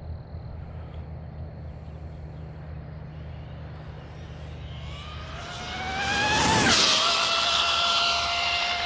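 Electric RC truck's brushless motor and drivetrain whining as it speeds toward and past, the whine rising and growing louder, then dropping sharply in pitch as it passes about two-thirds of the way through, and carrying on as a steady whine as it runs away.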